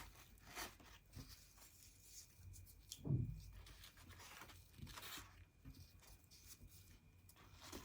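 Faint, scattered rustling and handling of paper craft pieces being stuck down with glue, with a louder rustle about three seconds in.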